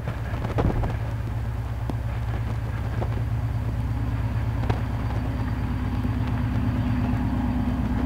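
Steady low drone of the 3TE10M diesel locomotive's engines, with a few faint clicks over it.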